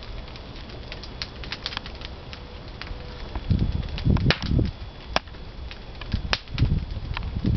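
Pine firewood crackling and popping in a wood-fired kiln, sharp irregular snaps throughout, with a few low rumbling surges about halfway through and again near the end.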